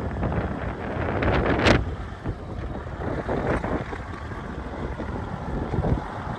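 Wind buffeting the microphone over a low, uneven rumble, with one sharp louder crackle about a second and a half in.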